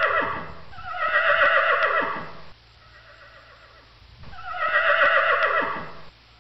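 An animal calling loudly in long, quavering calls, each about a second and a half long and dropping in pitch at its end: one call ends just as the sound begins, another comes about a second in, and a third about four seconds in.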